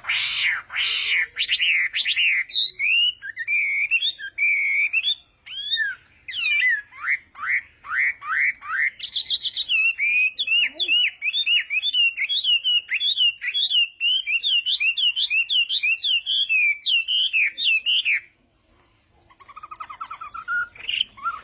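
Chinese hwamei singing: a loud, varied song of clear whistled phrases sliding up and down, running into a long series of quickly repeated notes that breaks off abruptly, then a softer, faster trill of notes near the end.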